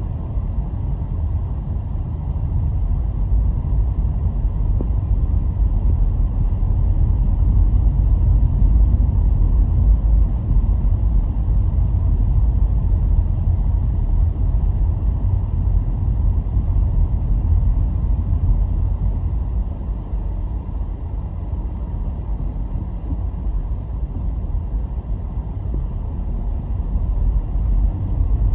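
A car driving on the road: a steady low rumble of engine and tyres, growing louder about a third of the way in, easing after two-thirds and picking up again near the end.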